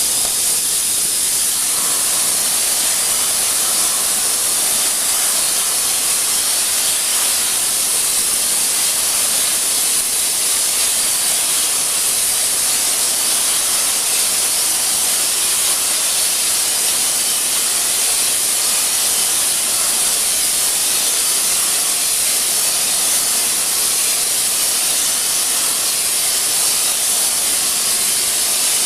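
Steady, loud hiss, strongest in the high range.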